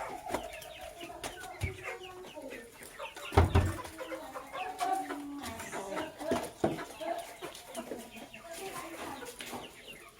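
Birds calling: a busy mix of short clucking and chirping calls, overlapping throughout. A dull knock about three and a half seconds in is the loudest sound.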